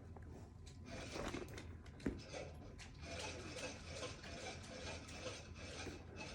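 Faint rustling and small clicks from the bag and its packaging being handled, with one sharper click about two seconds in.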